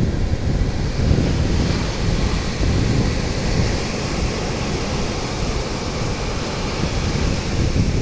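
Sea waves washing in a bay, a steady surf hiss that swells for a few seconds about a second and a half in, with wind rumbling on the microphone underneath.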